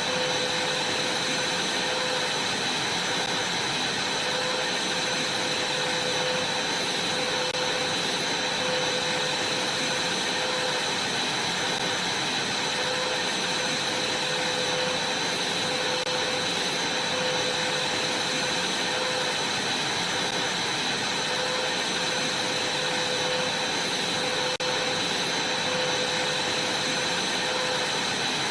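Vacuum cleaner running steadily, a constant airy rush with a high whine over it and a lower hum that wavers slightly.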